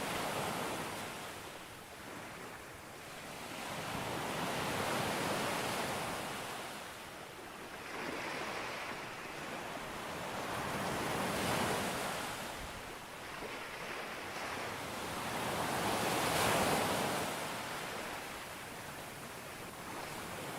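Ocean waves breaking on a beach, the surf swelling and falling back in slow surges about every five seconds, four times.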